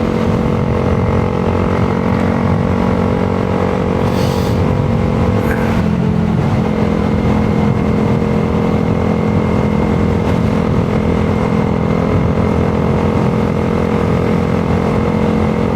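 2022 Honda Grom's small single-cylinder engine running steadily while riding, with a short change in engine note about six seconds in.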